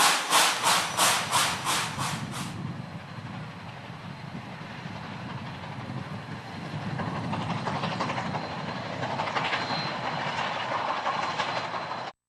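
Steam locomotive working hard, with rapid exhaust chuffs about four a second that stop about two seconds in. After that the train rolls on with a steady rumble and the clicking of wheels over rail joints, until the sound cuts off suddenly near the end.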